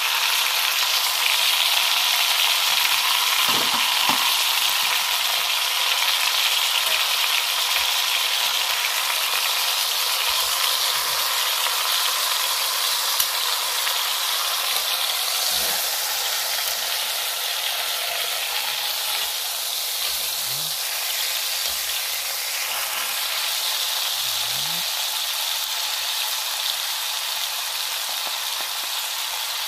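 Whole chicken searing in hot oil in an enamelled cast-iron Dutch oven: a steady sizzle that eases slightly toward the end, with the bird being turned with tongs and a wooden spoon.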